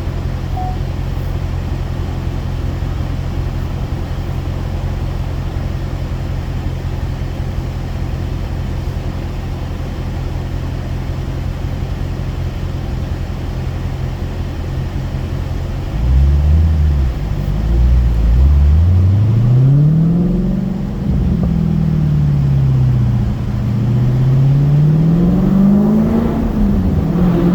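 Dodge Challenger with its mufflers deleted, idling with a steady low exhaust drone. About sixteen seconds in it gets louder and pulls hard, the exhaust note rising and falling several times.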